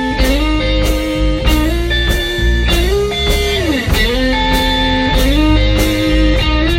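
A blues band playing the instrumental intro: electric guitar notes bending and sliding over bass and drums with a steady beat.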